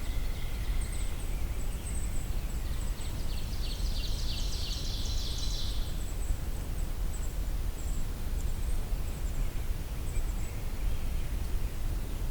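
Brown creeper singing: a short jumble of high, thin notes from about two to six seconds in, with faint, very high, thin call notes scattered through the first part, over a steady low rumble.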